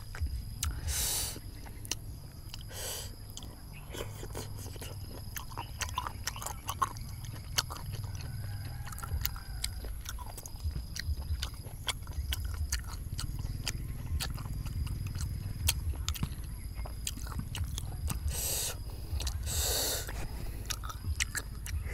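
Close-miked eating of spicy fried snails: wet chewing, with many small clicks of snail shells knocking together and against the metal pan as they are picked out by hand, and a few short sucking sounds.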